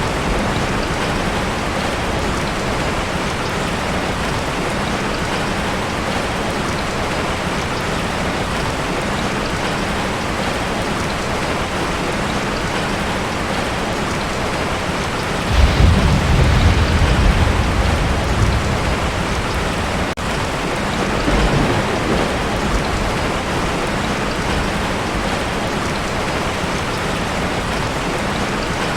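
Heavy rain drumming steadily on a tin roof. About halfway through, a loud deep thunder rumble breaks in and dies away over several seconds, with a smaller rumble a few seconds later.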